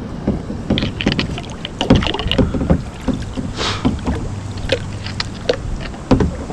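Wind rumbling on the microphone, with irregular rustles and knocks from someone moving about and searching by hand.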